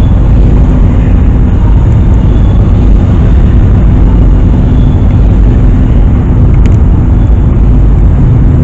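Car engines idling, a loud, steady low rumble.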